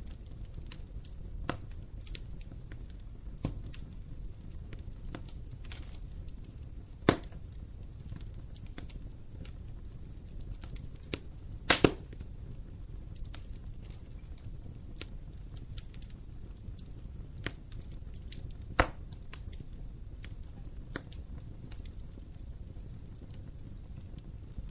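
Wood fire crackling in an open fireplace: scattered small crackles over a low steady rumble of the flames, with three louder pops, the loudest a quick double pop near the middle.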